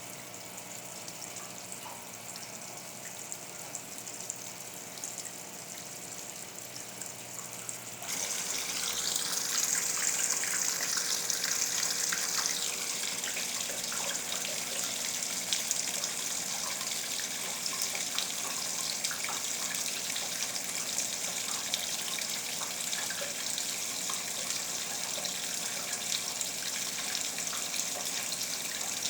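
Water running into the tub of a 1977 Westinghouse Lavínia washing machine as it fills. The rush of water steps up abruptly about eight seconds in and stays louder after that.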